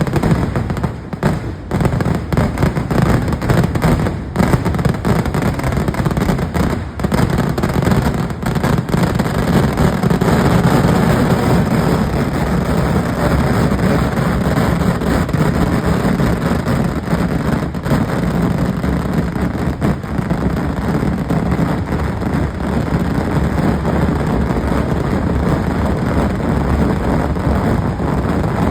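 Kerala temple-festival fireworks (vedikettu) going off in a loud, rapid-fire barrage: separate sharp bangs at first, which close up into a continuous rolling rumble of overlapping explosions from about a third of the way in.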